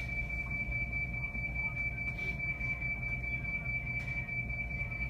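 Train protection radio emergency alarm (bōgo musen) sounding as one unbroken high-pitched tone, the signal that halts nearby trains after an emergency stop. Under it runs the steady low hum of the stopped 225 series electric train.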